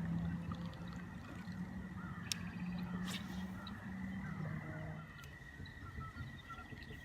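A low hum that wavers in pitch and fades about five seconds in, with faint bird calls over it.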